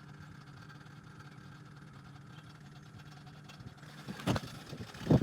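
BMW engine idling steadily, with what the owner calls a bit of a rough idle. Two loud thumps come near the end, about a second apart.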